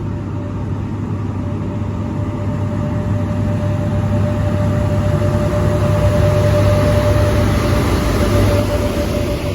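A train running through the station, a loud steady rumble with a held tone above it, growing louder toward the middle and easing off near the end.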